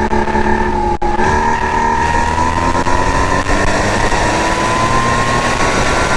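Porsche 981 Cayman S 3.4-litre flat-six engine pulling hard under acceleration. A quick upshift about a second in lowers the pitch, then the engine note climbs slowly and steadily as the car gathers speed.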